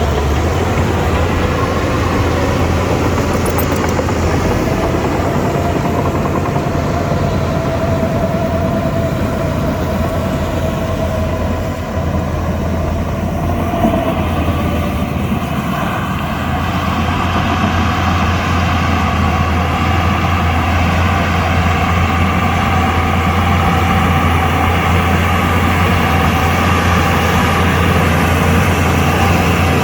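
Shantui DH17 bulldozer's diesel engine running steadily under load with a deep low hum, a faint whine above it in the middle, easing for a moment about twelve seconds in and building again from about sixteen seconds.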